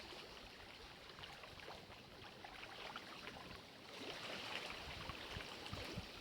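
Lake water lapping gently, a soft steady wash with many small splashes, growing a little louder about four seconds in.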